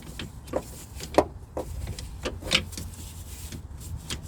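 A handful of sharp, irregular clicks and knocks, the loudest about a second in, from metal parts and tools being handled during a steering rack installation, over a low steady hum.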